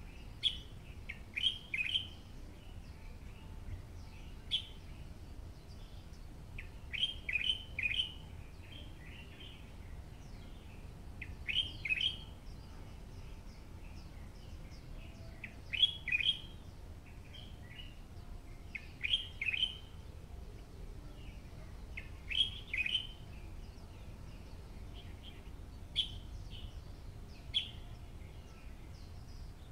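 Small birds chirping in short runs of a few quick, high notes, a run coming every three or four seconds, over a low steady background rumble.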